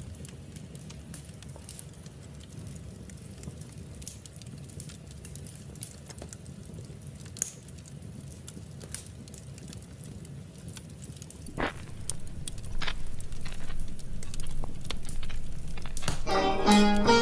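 Fireplace crackling, with scattered small pops over a low steady rumble and a couple of louder pops about twelve seconds in. Near the end, string-instrument music comes in.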